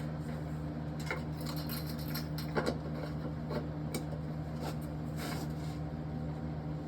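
Scattered light metallic clicks and clinks of tools and engine parts being handled, the sharpest about two and a half seconds in, over a steady low hum.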